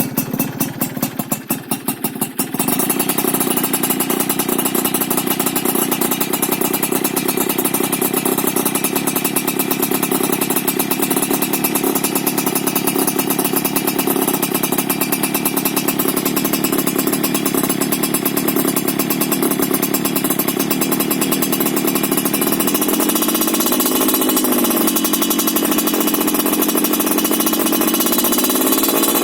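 Yamaha F1ZR two-stroke single running through an aftermarket under-slung stainless racing exhaust with a silencer. It runs choppy and uneven for the first couple of seconds, then jumps to steady high revs that climb a little near the end.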